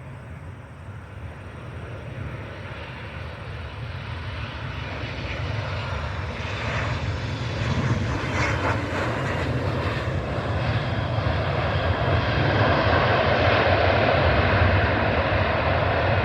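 Boeing 737-900 jet airliner on arrival, its CFM56 turbofan engines growing steadily louder as it draws closer, loudest in the second half.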